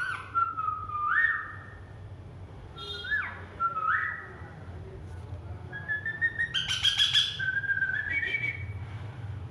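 A man whistling short rising notes back and forth with a pet parrot, which answers with whistles and chirps. There are three whistled phrases; the last, from about six seconds in, is longer and broken up with clicks.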